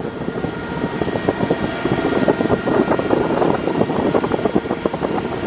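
Motor cruiser running at speed. Engine and rushing-water noise is mixed with wind buffeting the microphone, and a faint steady whine comes in about a second in. The sound cuts off suddenly at the end.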